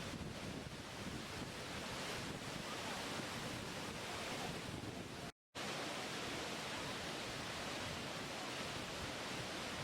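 Steady rushing water, an even unbroken roar with no separate events. It drops out to silence for a split second about halfway through.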